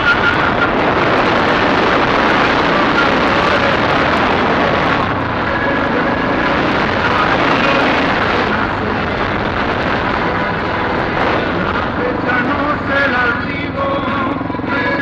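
A 250 cc dirt bike engine running while the bike is ridden, under a dense, steady rushing noise.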